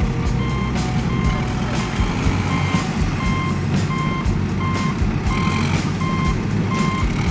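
Vehicle reversing alarm beeping at an even pace, about three beeps every two seconds, over a low engine rumble.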